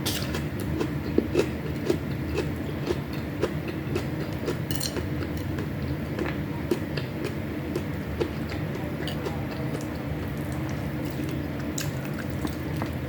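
Close-miked chewing of food, likely including dried fish, with small crunches and mouth clicks about once or twice a second over steady low background noise.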